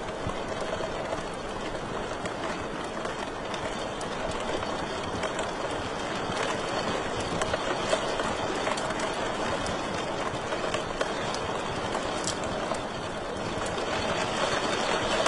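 Wood fire crackling in a fireplace: a steady hiss and rumble of burning with scattered sharp pops, the clearest about twelve seconds in.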